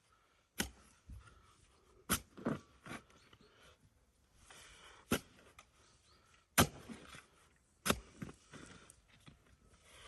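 A series of sharp knocks, about six strikes at uneven intervals, with faint rustling between them.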